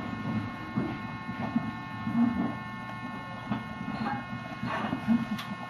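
Inside a JR West 221 series electric train car slowing to a stop: a steady electrical hum with irregular knocks and creaks from the car.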